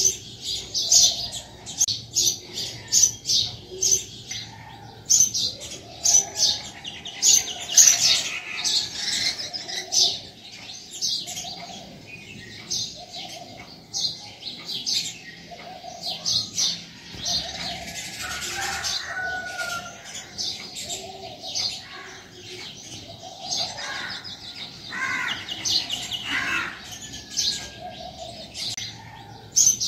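Small birds chirping in quick succession, several short high chirps a second, with a fainter lower repeated note underneath.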